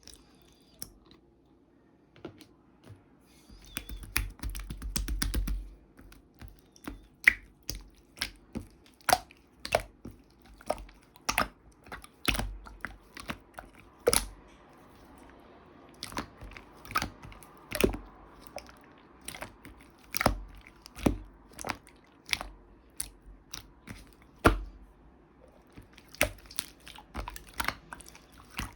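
A cat chewing and crunching something hard, in irregular sharp crunches about one or two a second, with a quick run of crunches about four seconds in.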